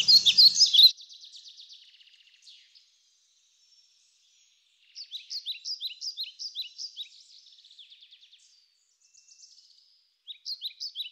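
A songbird singing in phrases of rapid, high repeated chirps: a loud burst in the first second, a longer phrase from about five seconds in, and another starting near the end, with near silence between.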